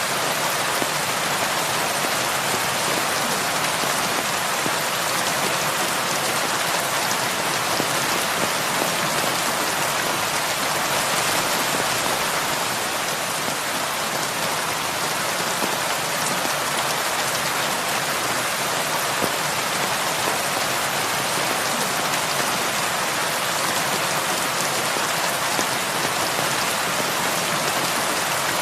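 Heavy rain falling steadily on a roof: an even hiss of drops that holds unchanged throughout.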